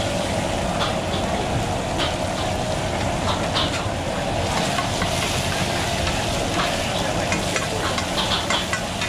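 Oyster omelette batter, egg and chopped greens sizzling in oil on a flat round griddle, a steady hiss with scattered crackles that thicken about halfway through. Near the end a metal spatula scrapes across the griddle. A steady low hum runs underneath.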